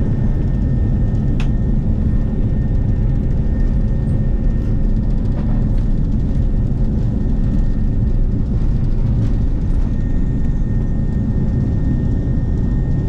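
Steady cabin noise of an Airbus A330-300 heard from inside the cabin: an even low rumble of engines and airflow with a faint steady whine over it.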